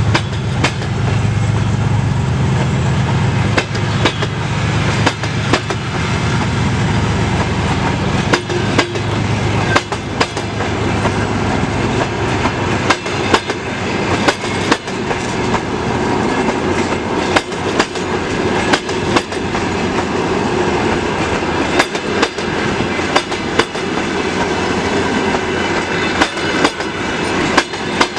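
Passenger train carriages rolling past at low speed, their wheels clicking over the rail joints in a repeated clickety-clack. For the first third or so, the low hum of the 2TE10UT diesel locomotive's engine is also heard, fading away as the locomotive moves off.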